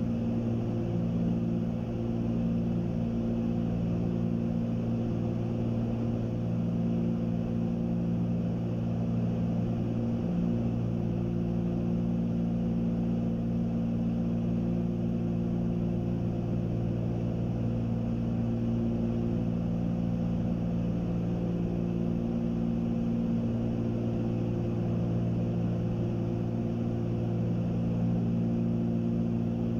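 Twin piston engines and propellers of a Cessna 310Q droning steadily in cruise flight. Some of the tones in the drone fade in and out slowly.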